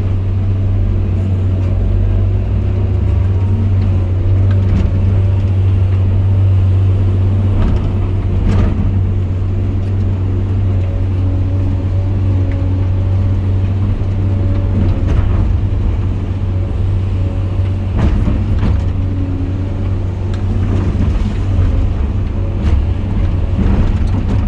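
Diesel engine of a heavy bucket-loading machine running steadily under load, with a few short knocks along the way.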